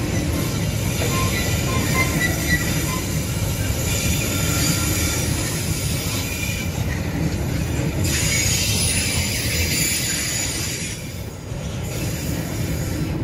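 Loaded freight train's boxcars rolling past with a steady rumble of wheels on rail, and a few short, high-pitched wheel squeals in the first few seconds.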